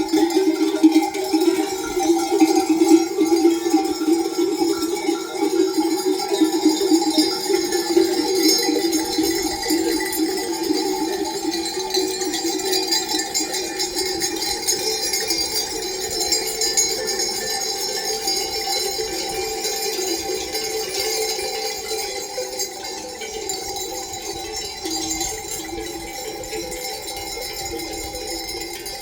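Many livestock neck bells clanking together without a break, as from a moving flock, slowly growing fainter over the stretch.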